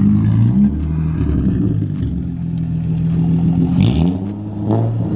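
Car engine running at low revs as the car creeps away, with the revs rising and falling near the end.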